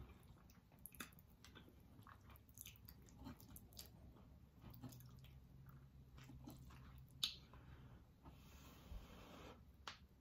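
Faint close-up chewing and mouth sounds of someone eating macaroni and cheese, with scattered small clicks and one sharper click about seven seconds in.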